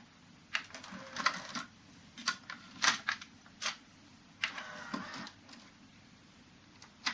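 Sony TC-K222ESG cassette deck's transport mechanism and control buttons clicking and clunking as it is switched between modes during a post-repair function check: a series of irregularly spaced mechanical clicks, with a few seconds of near-quiet hiss near the end and one more sharp click at the very end.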